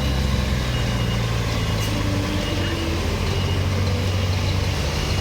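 Truck engine running steadily at a low, even idle.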